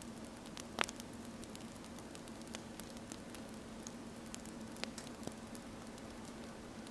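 Wood fire crackling, with scattered sharp pops over a steady hiss and a faint low hum.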